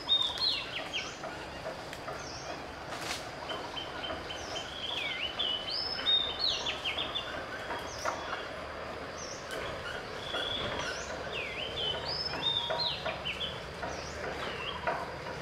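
Bird song: a short phrase of quick chirping whistles that swoop up and down, repeated every few seconds, over a steady background hiss.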